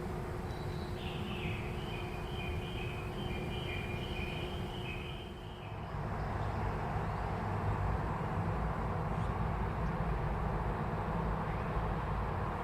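A train running on the tracks with a steady low rumble, growing louder from about six seconds in. Over the first half, a high two-note sound pulses on and off.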